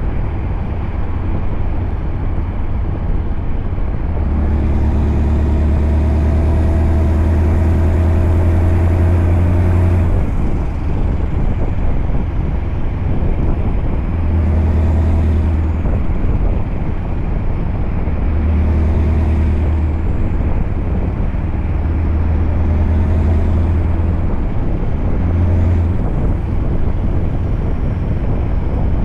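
Scania V8 truck engine running steadily while under way. It pulls harder for several seconds from about four seconds in, then swells again in shorter surges several times.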